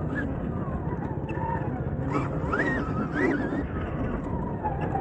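Stark Varg electric dirt bike's motor whining, its pitch rising and falling several times with the throttle, over a steady low rush of riding noise.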